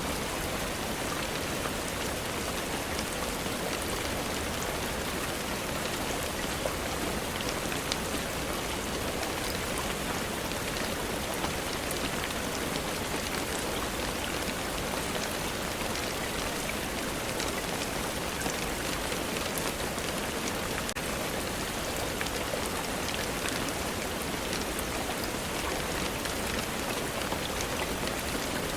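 Steady rainfall, an even hiss of rain on surfaces with small scattered ticks of drops.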